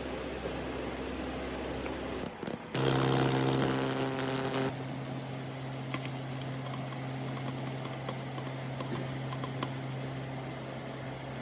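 An electric power tool's motor starts about three seconds in with a loud burst of cutting or grinding noise lasting about two seconds, then keeps running with a steady hum.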